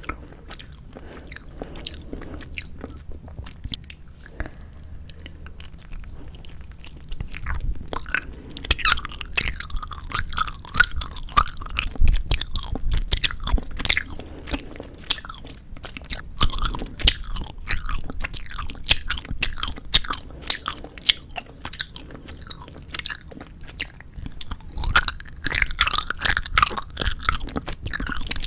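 Close-miked chewing of 4D gummy jelly candy, with dense sticky clicking mouth sounds. It is quieter for the first several seconds and grows louder and busier from about eight seconds in.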